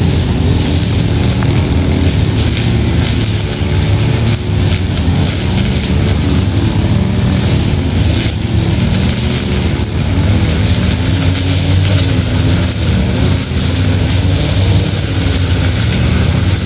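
Steady running of a vehicle engine, a low hum with a wavering pitch under a constant rushing noise, unbroken throughout.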